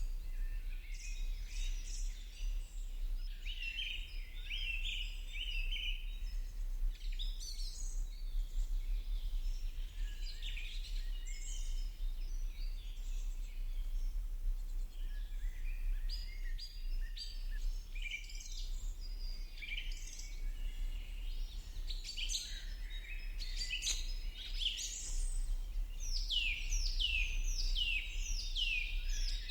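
Birds chirping and singing, many short calls overlapping, with a run of quick descending whistles near the end, over a steady low hum.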